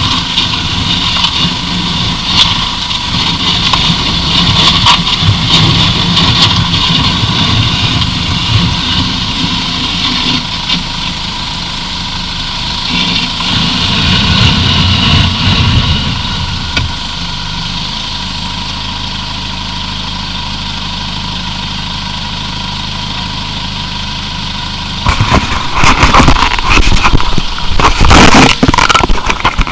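1999 Plymouth Breeze's 2.0-litre four-cylinder engine running, settling to a steady idle about halfway through. Near the end a loud crackling noise comes in over it.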